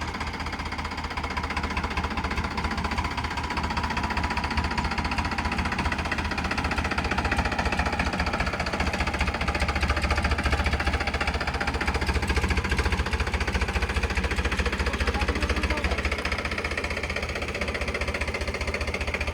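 Tractor diesel engine running steadily, with a rapid low knocking pulse, a little louder in the middle.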